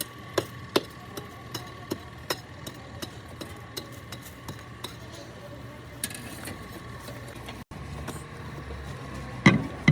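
Light hammer knocks at irregular intervals over a steady engine hum, with two louder knocks near the end.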